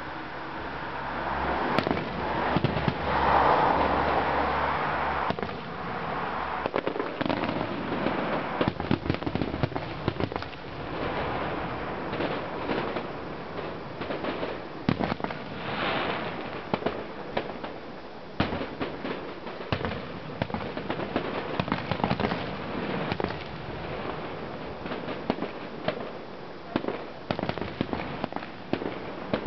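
Fireworks display: a dense, continuous run of bangs and crackling pops, with a louder rushing hiss a few seconds in.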